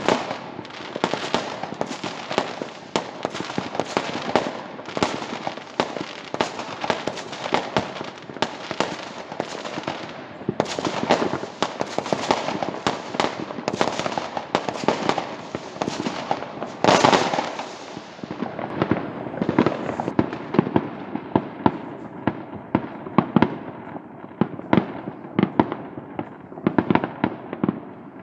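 Many fireworks going off across the neighbourhood: a dense, continuous stream of bangs and crackles, with one especially loud burst about two-thirds of the way through.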